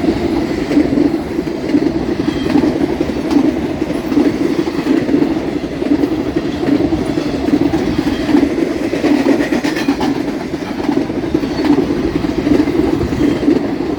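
Railroad cars rolling past close by: a steady rumble of steel wheels on rail, with wheels clicking over a rail joint. The clicking is the normal sound of a rail joint, not a defect.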